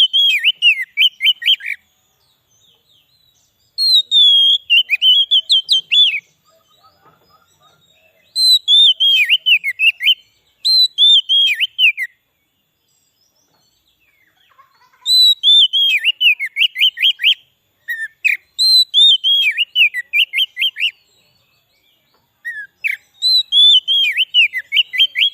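Oriental magpie-robin (kacer) singing, repeating one short whistled phrase about seven times with brief pauses between. Each phrase opens with a high note sliding down, then a quick run of rising notes.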